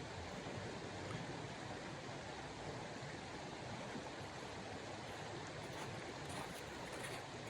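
Steady rushing noise of snowstorm wind, with a few faint rustles near the end.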